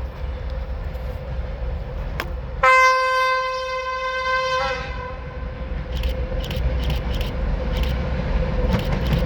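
ChME3 diesel shunting locomotive passing with its engine rumbling steadily; its horn sounds one steady two-second blast about three seconds in, the loudest sound here. Afterwards a series of sharp clicks follows as the freight train's wheels run over the rails.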